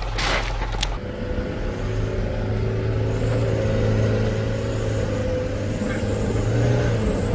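A motor vehicle engine running steadily with a low hum, after a few sharp knocks in the first second.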